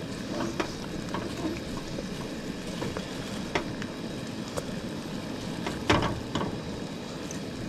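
Eggs and bacon sizzling in a frying pan as they cook, with a few scattered light clicks and a louder knock about six seconds in.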